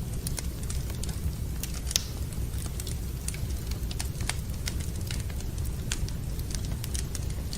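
Wood fire burning in a fireplace, crackling with irregular sharp pops over a steady low rumble; the loudest pop comes about two seconds in.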